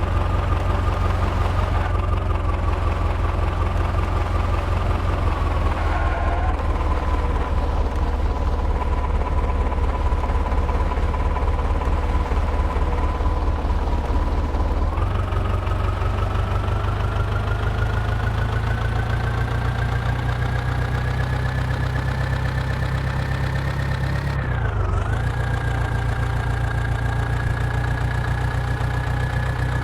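Tractor engine running steadily with a deep rumble. Its pitch eases down about five seconds in, then climbs slowly from about fifteen seconds on as the engine speeds up, with a brief dip near twenty-five seconds.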